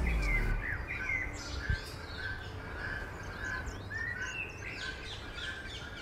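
Several birds singing and calling together: a short note repeated about twice a second, with higher chirps and sweeping notes over it and a quick run of very high notes near the end.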